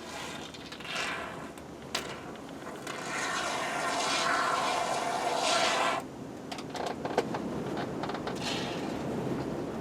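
Can of spray foam hissing as it is dispensed in bursts: a short spurt about a second in, a long spray of about three seconds that cuts off sharply, and another short spurt near the end.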